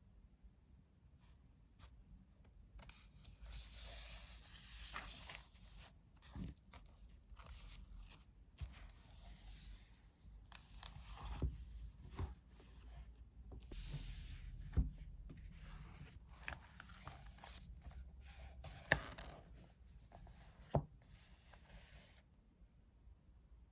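Rustling and scraping of things being handled, in stretches of a second or two, with a few sharp knocks.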